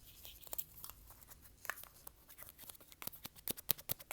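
Fast, irregular taps and clicks made with the hands and fingers, a rapid run of sharp little strikes that comes thickest about three seconds in.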